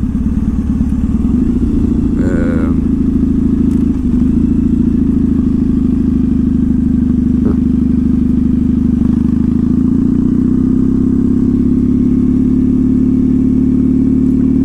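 2014 Triumph Thruxton's air-cooled parallel-twin engine through a slash-cut TT exhaust, running steadily as the bike climbs a road, its pitch drifting slightly with a brief dip about four seconds in.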